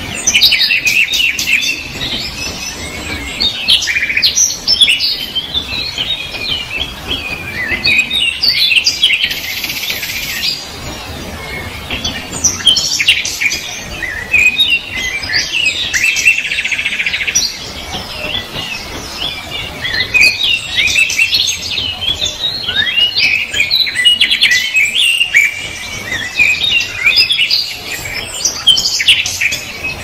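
Birds chirping and singing: many short, high calls overlapping one another, with a buzzy trill a little past halfway.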